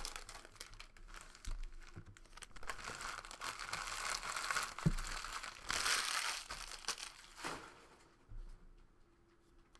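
Foil trading-card pack wrappers crinkling and tearing as packs are opened by hand, most busily in the middle, then dying away near the end.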